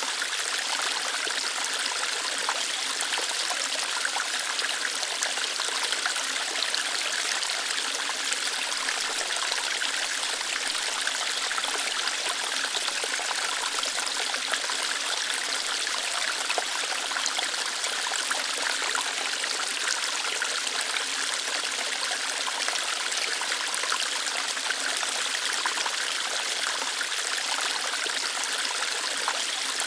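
Small waterfall, water flowing lightly through rocks: a steady, even splashing hiss, mostly high and bright with little low rumble.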